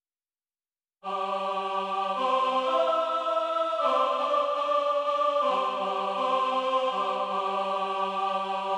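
Background music of slow, held chords that change every second or two. It starts about a second in, after a second of silence.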